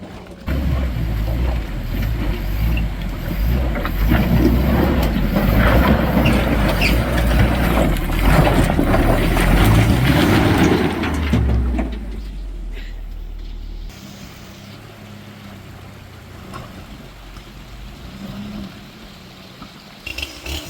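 Off-road 4x4 truck engine running hard under load, loud with a heavy low rumble for about the first twelve seconds, then dropping away to a much quieter steady running sound.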